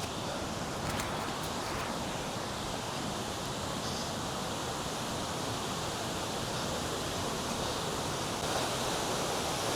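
Steady, even rush of flowing water from a river and waterfall, with a few faint clicks about a second in.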